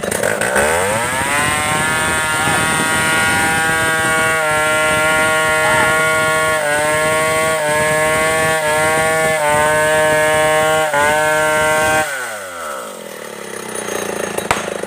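Two-stroke Stihl 070 chainsaw revving up to full throttle and running flat out for about ten seconds, dipping briefly in pitch several times, then throttled back so the engine speed falls away near the end.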